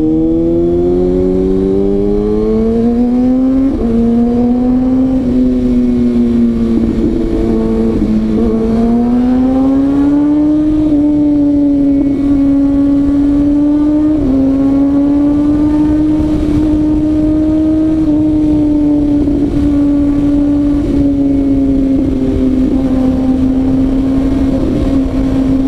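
Kawasaki ZX-6R inline-four engine pulling away and accelerating, its pitch rising and dropping back at gear changes about 4 and 8 seconds in. Then it climbs again and settles into a steady pitch at cruising speed, over a constant rush of noise.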